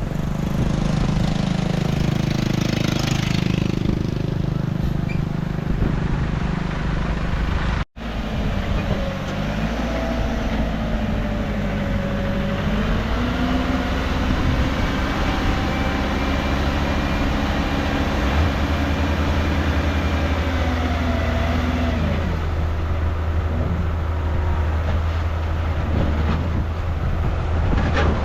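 Diesel engine of heavy earthmoving machinery running under varying load, its pitch rising and falling several times. The sound breaks off briefly about eight seconds in.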